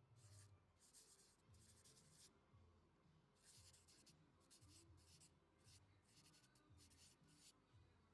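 Near silence with faint, short scraping and rustling sounds coming every half second or so, like light handling noise.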